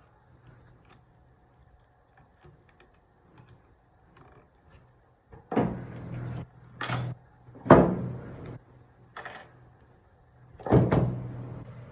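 Metal parts and tools being handled on a workbench: a few faint clinks, then several sharp metallic knocks and clatters with short ringing in the second half.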